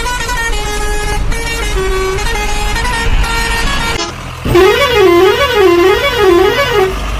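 Vehicle musical horn playing a quick tune of short stepped notes over a low engine rumble, then, about four seconds in, a louder warbling siren-like horn that rises and falls about four times.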